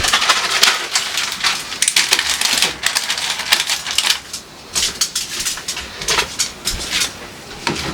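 Plastic food containers and packaging being handled, a busy run of irregular clicks, crinkles and crackles that thins out about halfway through.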